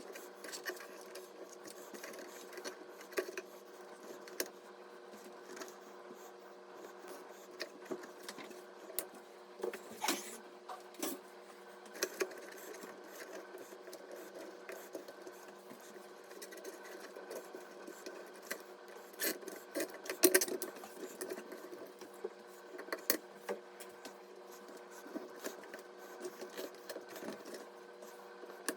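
Scattered clicks, taps and rubbing of small hard parts being handled during a PC assembly, over a steady hum; the loudest clicks come about twenty seconds in.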